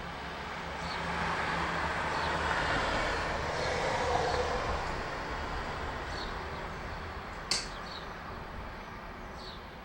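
A passing vehicle: a broad rushing noise swells over the first few seconds, then slowly fades, while small birds chirp in short high notes. A single sharp click comes about seven and a half seconds in.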